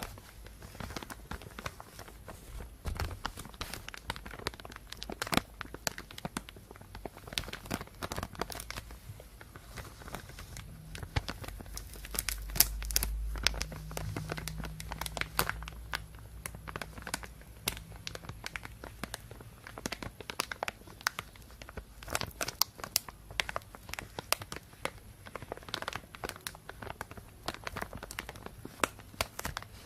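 Thin plastic bag crinkling and rustling as it is handled, with irregular crackles throughout and a brief low rumble around the middle.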